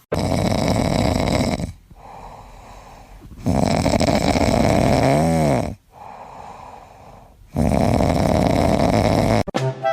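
Loud snoring: three long, rattling snores a few seconds apart, with a brief whistle during the middle one. Music starts just before the end.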